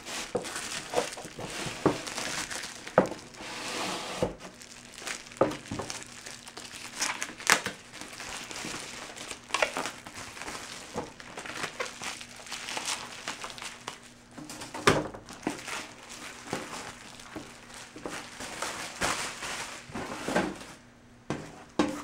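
Shipping box being opened by hand, its packing material crinkling and rustling, with scattered sharp crackles and knocks.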